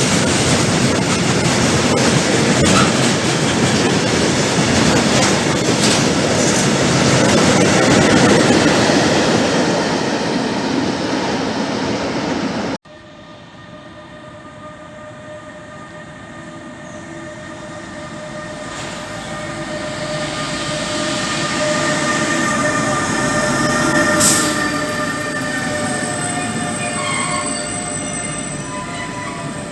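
A freight train passing close by, with loud, dense rolling rail noise that cuts off suddenly about 13 seconds in. Then another train approaches, its sound growing steadily louder and carrying several steady high tones, like wheel squeal or electric drive whine.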